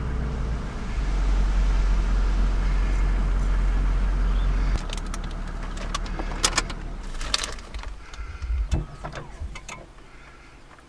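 A vehicle engine running with a steady low hum that drops off abruptly just under five seconds in, followed by a scatter of sharp clicks and knocks.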